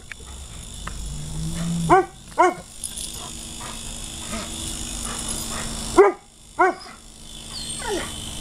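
Dog barking: two quick barks about two seconds in, two more about six seconds in and a fainter one near the end, over a faint steady hum.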